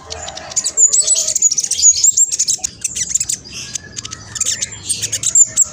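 Black sunbird singing a fast, busy song of high chirps and quick downward-sweeping notes, packed close together with hardly a pause.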